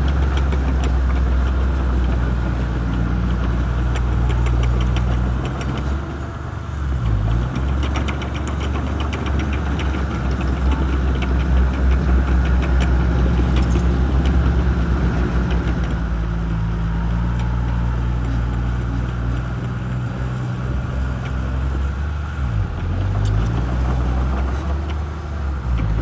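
Shantui crawler bulldozer's diesel engine running under load, its pitch sagging and recovering twice as it pushes, with a fast rattle over the top.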